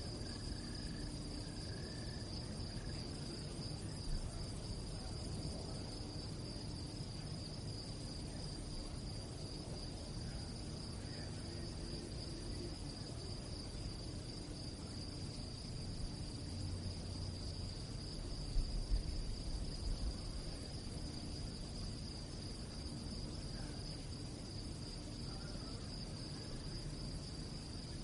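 Crickets singing at night in a steady, unbroken high trill, over a low rumble with a few brief low bumps about four seconds in and again around two-thirds of the way through.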